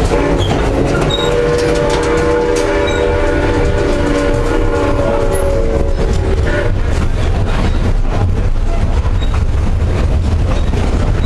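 Inside a rolling passenger car: the steady low rumble and clatter of the wheels on the rails, with the steam locomotive's chime whistle blowing one long blast of several tones at once that stops about six and a half seconds in.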